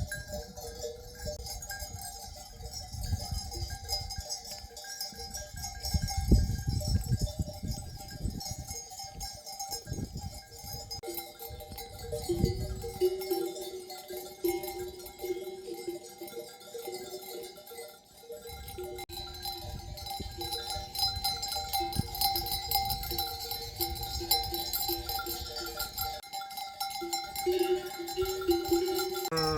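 Sheep bells ringing among a flock, with sheep and lambs bleating on and off, more often in the second half.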